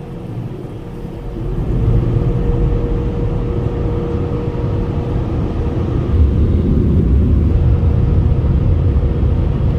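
Automatic car wash machinery rumbling, heard from inside the car: a loud low rumble with a steady hum, swelling about a second and a half in.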